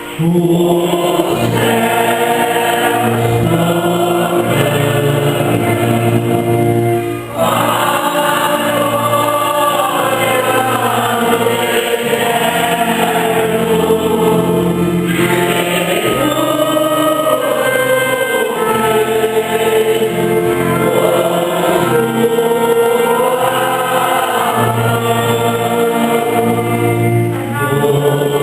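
Church choir singing a hymn with instrumental accompaniment, with a short break about seven seconds in.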